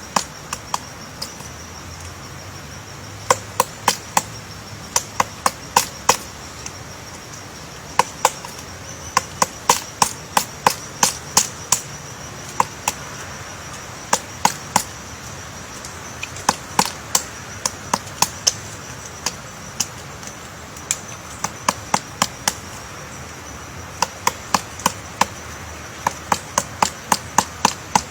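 Woodpecker chiselling into wood to dig out its nest hole: single sharp taps in irregular runs, often two or three a second, with short pauses between runs.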